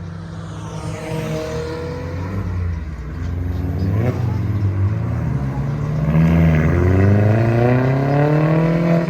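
Car engine accelerating hard, its revs climbing, dropping briefly about four seconds in, then rising in one long steady pull through the second half.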